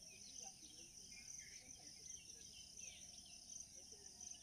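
Faint dawn chorus: many small birds chirping and calling over a steady, high-pitched insect trill.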